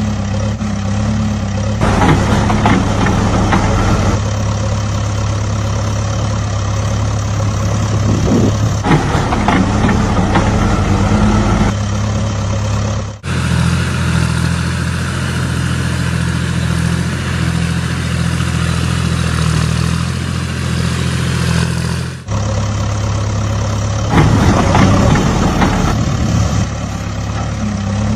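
Heavy diesel engine running steadily, its pitch and tone changing abruptly at about 2, 13 and 22 seconds where separate clips are cut together.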